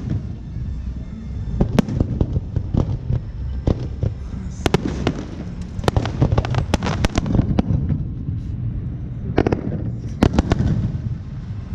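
Fireworks display: a rapid, irregular string of sharp bangs and crackles over a steady low rumble. The bangs come thickest midway through and again near the end.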